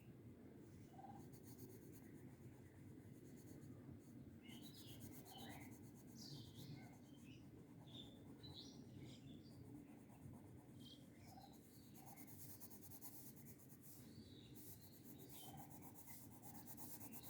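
Faint, steady rubbing of a colouring tool stroking back and forth across paper as a drawn shape is filled in with colour.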